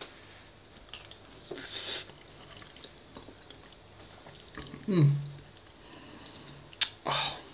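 Close-miked eating of spaghetti bolognese: soft chewing and wet mouth clicks, with two short breathy noises. About five seconds in comes the loudest moment, a brief voiced hum sliding down in pitch.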